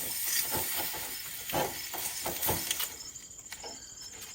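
Roasted partridge sizzling in its hot pan, with a few light knocks of handling; the sizzle drops away about three seconds in.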